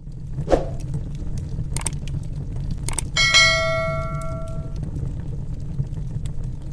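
A single bell-like ding about three seconds in that rings out and fades over about a second and a half, over a steady low hum with a few short clicks.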